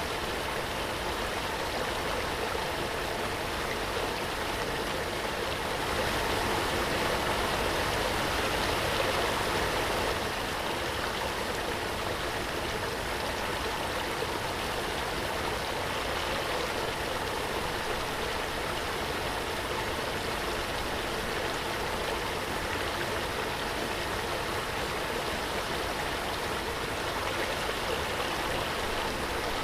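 Waterfall: falling water running with a steady, even rush, swelling slightly for a few seconds.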